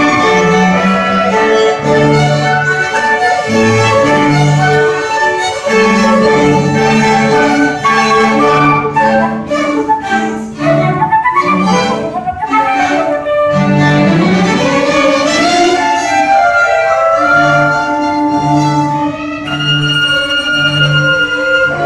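Student string orchestra playing: violins carry the tune over repeated low cello notes, with a rising run of notes about halfway through.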